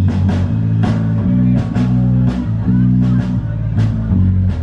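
Rock band playing live: a loud, steady bass line and guitar under a regular drum beat of about two hits a second.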